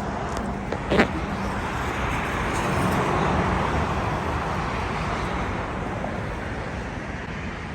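Steady road traffic noise from an interstate, swelling a little around the middle, with one sharp click about a second in.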